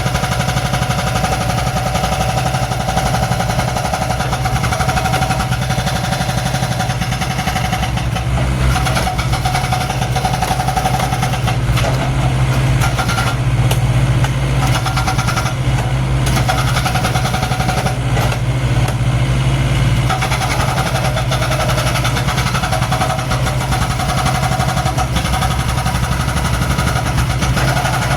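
Mini excavator's diesel engine running steadily, with a higher whine that comes and goes over the engine note.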